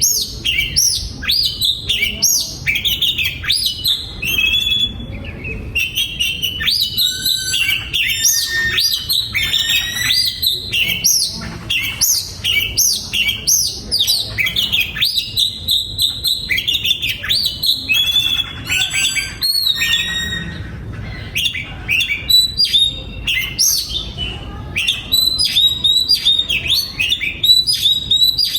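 Oriental magpie-robin singing: a long, unbroken run of rapid, varied whistled notes, slurs and trills.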